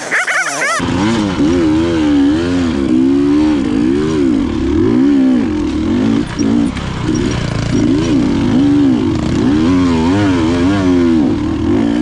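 KTM enduro motorcycle engine running under changing throttle, its pitch rising and falling every second or so. It is higher-pitched for about the first second, then drops.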